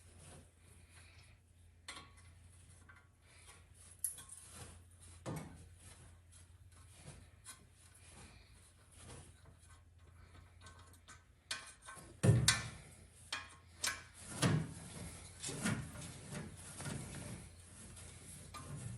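Hand tools clicking and knocking against metal while the engine's cooling fan is being unbolted: sparse clicks at first, then a cluster of louder knocks and clanks in the second half, over a faint steady low hum.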